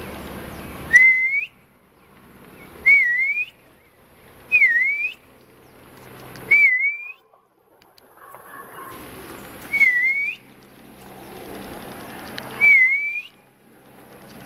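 A bird close by gives a loud whistled call six times, one every two to three seconds, each note dipping and then rising in pitch. A distant helicopter's steady drone runs beneath the calls.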